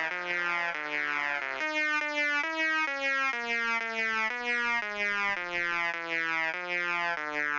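Synthesizer melody: a string of held electronic notes with bright overtones, about two a second, stepping up and down in pitch.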